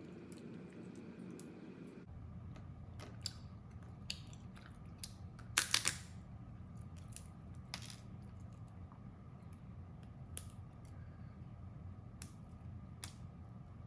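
Crab shell being cracked and broken open while eating: scattered sharp clicks and cracks, loudest in a quick cluster of cracks about five and a half seconds in, over a steady low hum.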